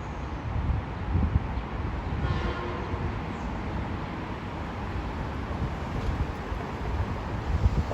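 Metro-North M7A electric multiple-unit train running by on the track: a steady rumble of wheels and motors on the rails.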